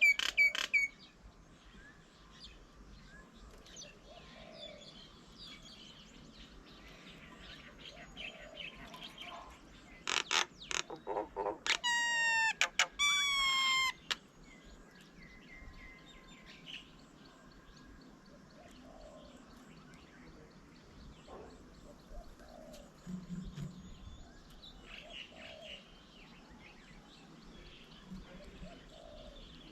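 Wild birds calling: faint scattered chirps throughout, with a loud burst of rapid notes about ten seconds in, then two long, strongly pitched calls.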